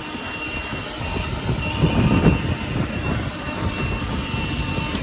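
Leaf blower running flat out on its turbo setting, a steady rushing blast with a faint whistle, blowing chaff out of an overheating tractor's clogged radiator; it cuts off right at the end.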